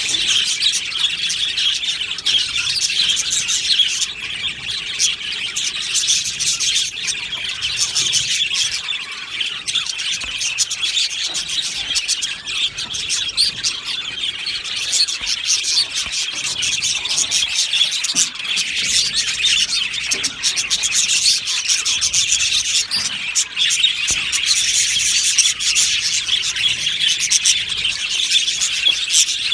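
A flock of budgerigars chattering and chirping: a dense, continuous warble of many overlapping short calls, high-pitched.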